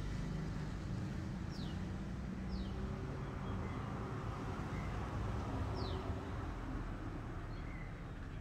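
Birds calling outdoors in short, high chirps that slide downward, about four of them spread through the stretch, over a steady low rumble.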